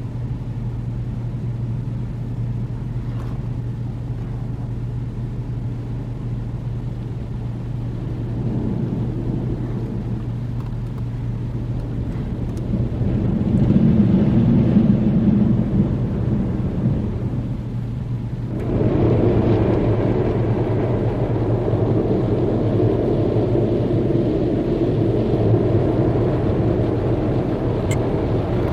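D&S IQ soft-touch car wash at work on a car: brushes and water going over the body over a steady low hum. A louder rumble swells and fades midway, then a wider rush of spray starts suddenly about two-thirds of the way through and keeps on.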